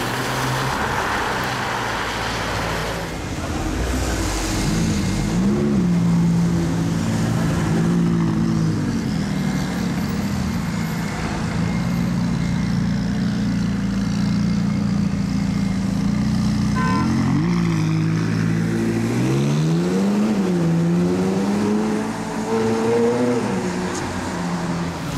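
Supercar engine running at a steady low note, blipped up in revs and falling back a few times, about five seconds in and again several times near the end.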